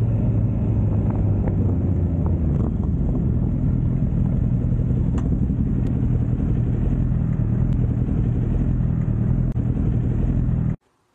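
Motorcycle engine running steadily while riding, a low rumble with road and air noise. About ten seconds in, all sound cuts off abruptly.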